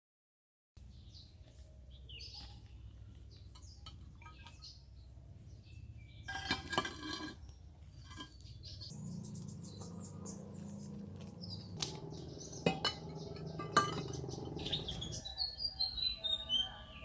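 Small birds chirping in the background, with a few sharp clinks of hard objects knocked together, about six, twelve and fourteen seconds in.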